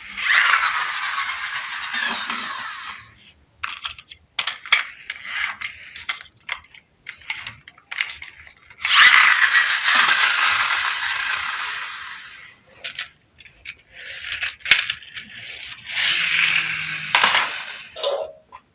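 Rattling, scraping clatter in long noisy bursts, the two longest lasting about three seconds each, with scattered sharp clicks between them.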